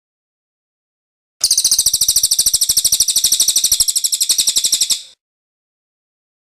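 Cililin bird song: one high, rapid rolling trill of evenly spaced notes, starting about a second and a half in and lasting about three and a half seconds.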